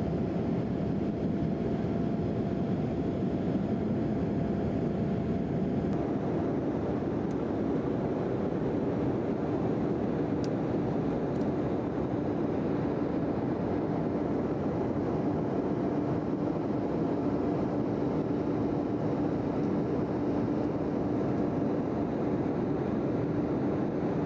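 Embraer E175 jet's twin turbofan engines and airflow making a steady rushing noise, with a low steady hum that grows stronger about halfway through.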